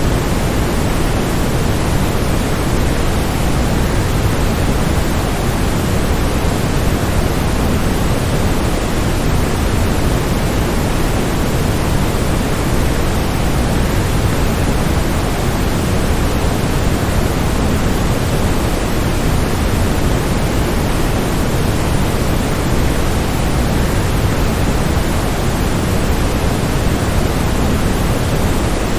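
Waterfall falling in a steady, unbroken rush, heaviest in the low end.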